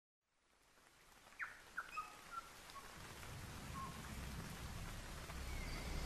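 Woodland ambience fading in: a few short bird chirps, some sweeping downward, over a steady hiss, then a low rumble that grows louder from about halfway.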